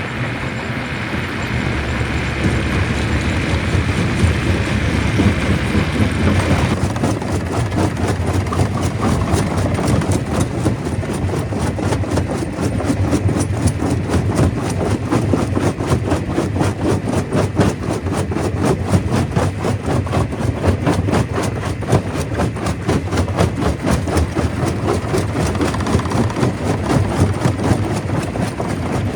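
Stone crusher running: steady heavy machine noise with a dense, continual rattle of rock being broken. A high hiss drops out about seven seconds in, and the rattling carries on.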